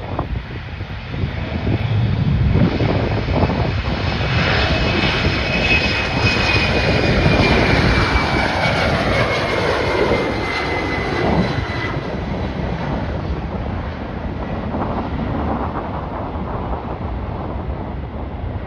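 An airliner's engines passing close by, swelling to a peak and then fading, their whine falling in pitch as the aircraft goes past. Wind buffets the microphone throughout.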